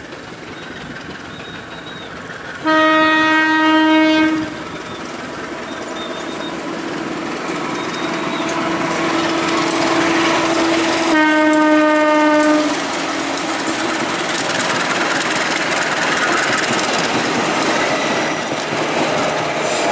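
A passenger train's diesel locomotive sounding its horn: two long single-note blasts several seconds apart, the first about 2 s long and the second about 1.5 s. Between and after the blasts comes the steady rolling noise of the train on the rails, growing louder as its carriages pass.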